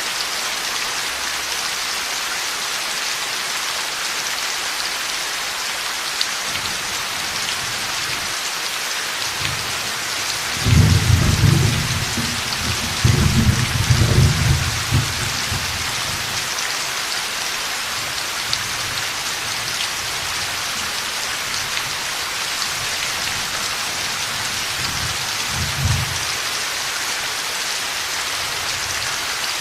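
Heavy steady rain with rolling thunder: a low rumble swells up about ten seconds in, peaks twice over some five seconds and dies away, with a shorter, fainter rumble near the end.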